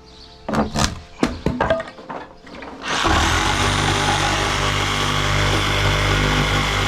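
A few sharp knocks and clatters of wood, then about three seconds in a power tool starts and runs steadily with a low hum.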